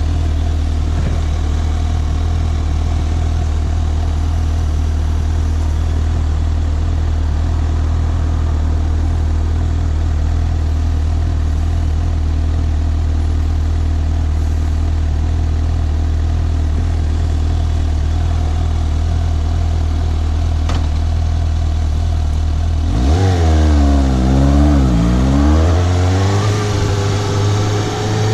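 Suzuki GSX750 inline-four motorcycle engine running at a steady pitch. About 23 seconds in, the revs swing up and down several times, then climb steadily as it accelerates near the end.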